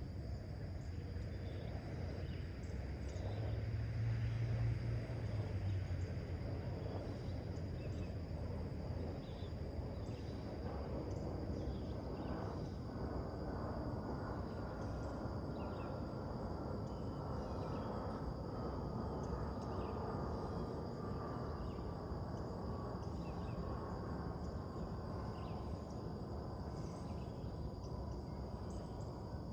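Outdoor morning ambience: a steady low rumble of distant traffic that swells briefly a few seconds in, a constant high insect drone, and scattered short bird chirps. A faint tone slowly falls in pitch through the second half.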